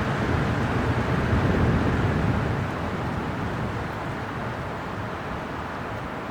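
Winter wind blowing in a steady rush that swells in a gust early on and then eases off.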